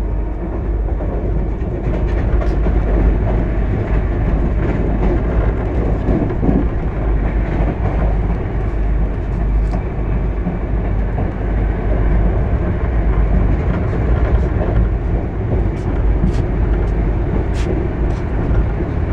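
Express passenger train running fast, heard from inside a coach: a steady loud rumble of wheels on the track with irregular sharp clicks of the wheels over the rails.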